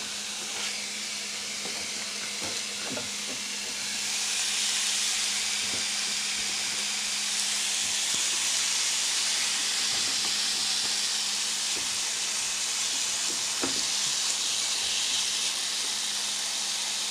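Seasoned chicken pieces sizzling in a hot nonstick frying pan as they are laid in by hand, the sizzle getting louder about four seconds in, with a few light knocks.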